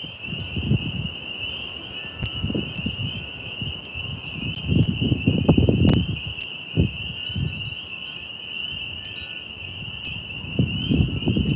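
A steady high chorus of crickets chirring throughout, with gusts of wind rumbling on the microphone that come and go, strongest about halfway through and again near the end. A sharp click about six seconds in.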